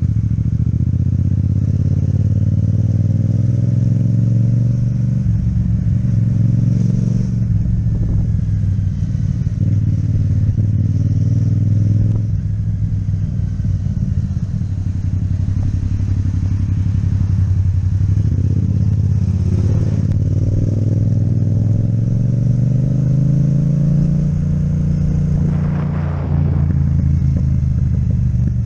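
Yamaha MT-07 parallel-twin engine with an Akrapovic exhaust running under way while riding. Its note rises and falls several times as the throttle is worked, with a brief drop around two-thirds of the way through and another near the end.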